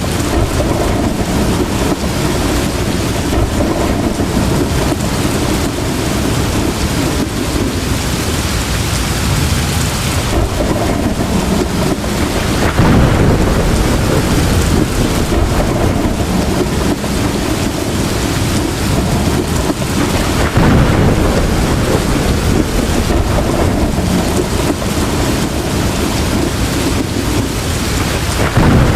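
Heavy rain pouring steadily, with thunder rumbling in low swells a few times: about halfway through, about two-thirds in, and again at the end.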